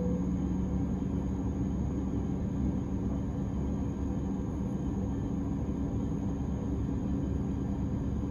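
Electric S-Bahn commuter train standing at a platform with its onboard equipment running: a steady low hum and rumble with a faint, steady high-pitched whine above it.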